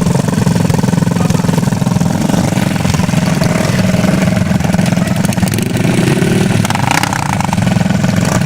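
Motocross motorcycle engine running steadily, with a brief rise in revs about two-thirds of the way through.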